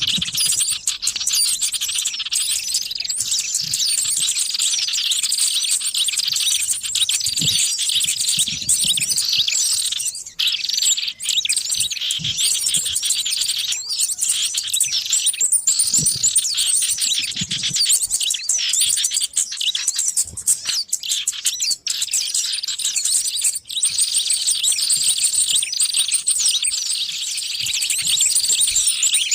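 Many small songbirds chirping and trilling at once in a dense, continuous chorus of high, quick calls: a bird-luring (pikat) recording of noisy small birds.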